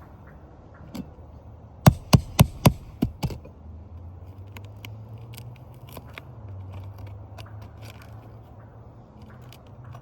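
Six quick hammer taps on a metal roofing tool, about four a second and growing lighter, followed by small scattered ticks and scrapes over a low steady hum.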